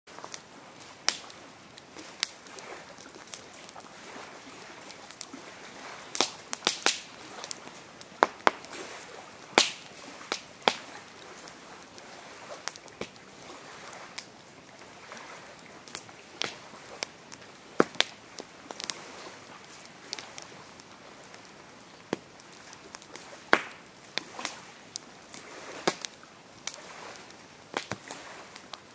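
Campfire burning, crackling with sharp, irregular pops and snaps of wood over a steady low hiss.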